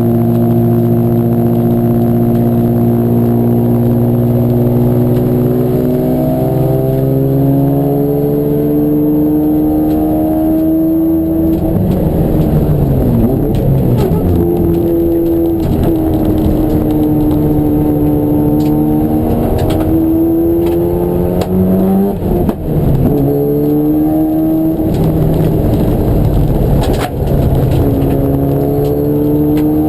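Racing car engine at speed, its pitch holding steady, then climbing under acceleration and dropping off again several times, with a few sharp knocks around the middle and near the end.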